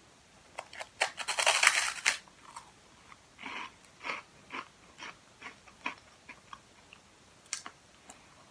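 Crunching as a crispy snack stick is bitten into, loudest and densest about a second in, then chewed with separate crunches about twice a second that thin out toward the end.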